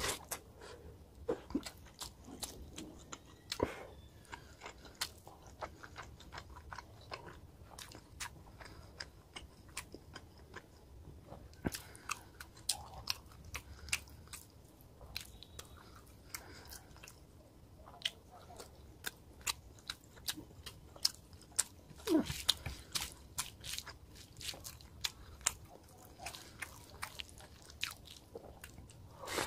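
Close-up chewing and biting of rohu fish curry and rice eaten by hand, with many sharp clicks and crunches coming faster near the end. One short falling sound stands out about three quarters of the way through.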